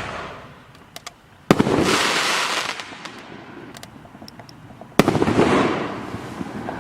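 5-inch consumer canister shells bursting in the air. A sound is already fading as it starts, then come two sharp bangs, about a second and a half and five seconds in, each followed by a noisy tail that fades over a second or two.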